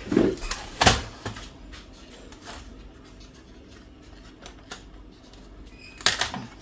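Hard plastic clicks and knocks as the printer's power supply unit is worked free of its plastic clips: a few sharp ones in the first second and another cluster near the end.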